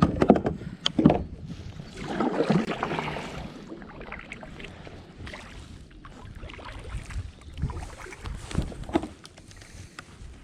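Sounds of a fishing kayak on the water: a few sharp knocks in the first second, then a longer rush of water around two to three seconds in, and scattered lighter knocks after, over a steady low rumble of wind on the microphone.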